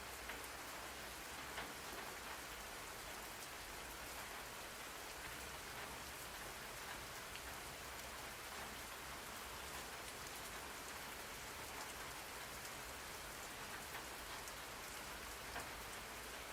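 Steady rain falling, an even hiss of drops on a surface with scattered faint drop ticks.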